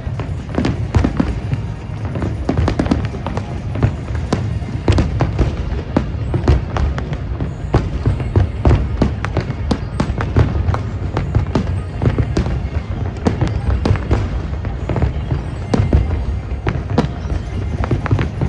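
Fireworks bursting continuously in a dense barrage, a rapid run of sharp bangs and crackles over a low rumble, with music playing underneath.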